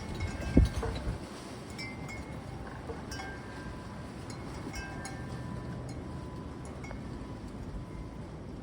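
Wind chimes tinkling now and then in gusty wind, short scattered ringing notes over a steady low rumble of wind. A single dull thump just after the start.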